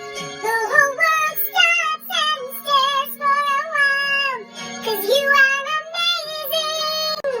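A high singing voice carrying a wavering, sliding melody in short notes over quiet backing music.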